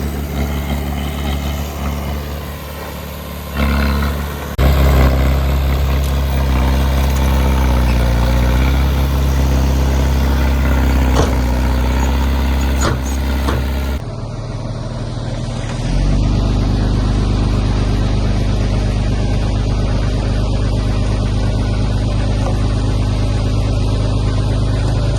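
Heavy diesel engines of earthmoving machinery running under load. The engine picks up about four seconds in, with a couple of short knocks near the middle. The sound then changes abruptly, and a diesel engine revs up and holds steady.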